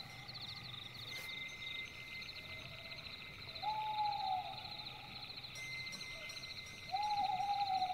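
Night ambience: an owl hooting twice, each a long, slightly falling note about three seconds apart, over a continuous rapid chirping of crickets.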